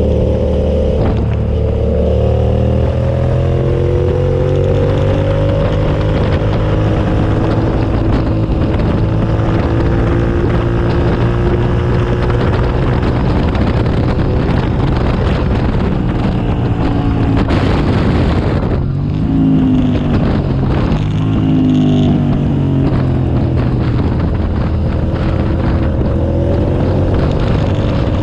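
2007 Suzuki SV650S's 645 cc V-twin engine running hard on track. Its pitch climbs steadily, falls sharply about two-thirds of the way through, and then climbs again.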